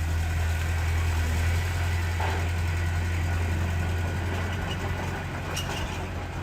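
Heavy diesel engine idling with a steady low drone, easing off a little in the second half.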